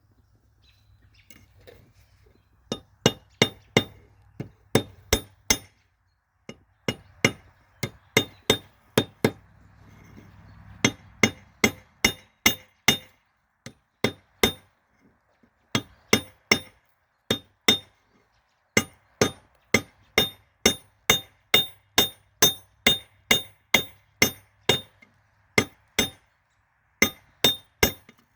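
Hammer striking a railroad spike on an anvil while forging it into a kukri blade: sharp ringing blows, about two or three a second in runs broken by short pauses, over a faint low hum.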